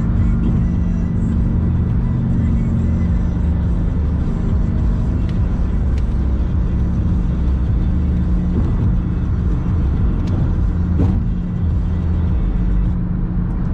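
Steady road and engine noise of a car driving at speed: a continuous low rumble with a steady drone.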